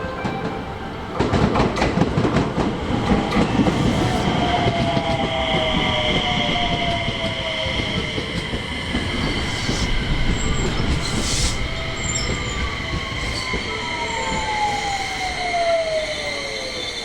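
Electric train on the rails, wheels clattering over the track with a high, steady wheel squeal. An electric motor whine drops slowly in pitch, typical of the train braking to slow down.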